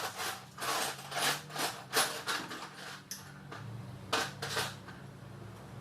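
Irregular scraping and rubbing strokes, about eight of them, over a faint steady hum: hand work with tools on a car.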